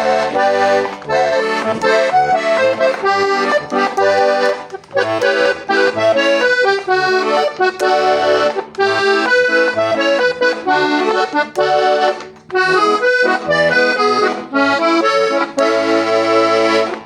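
Hohner Corona II diatonic button accordion in A-D-G playing a lively tune: a treble melody with chords over short, rhythmic bass notes. It ends on a held chord that stops suddenly.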